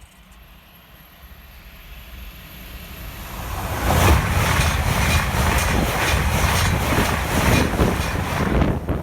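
LNER Azuma high-speed train approaching and passing at speed: a rush of noise builds over the first few seconds, then stays loud with a rapid regular beat running through it.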